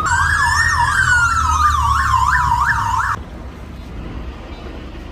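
Police car siren sounding loudly, a fast up-and-down yelp over a slower falling wail, with vehicle rumble underneath. It cuts off suddenly about three seconds in, leaving quieter road noise.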